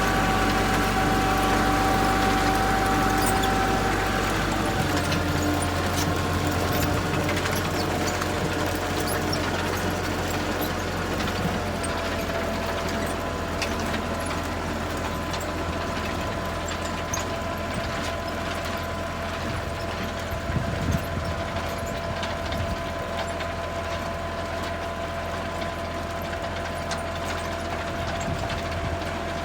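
A heavy vehicle engine running steadily, its note dropping about five seconds in and shifting again around twelve seconds, with scattered clicks and rattles over it.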